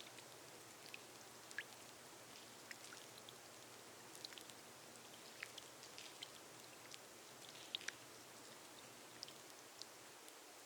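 Rain falling on a glass roof: a faint, steady hiss with scattered sharp drips striking the glass.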